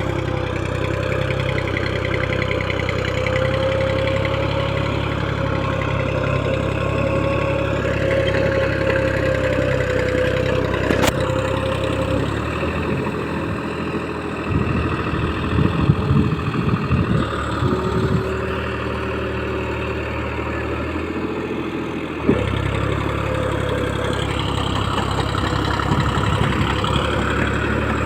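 Deutz-Fahr tractor's diesel engine running steadily while ploughing in heavy mud, with a steady whine above the engine note. About halfway through, the engine note drops and louder, uneven noises come and go; a sharp knock ends that stretch and the steady running returns.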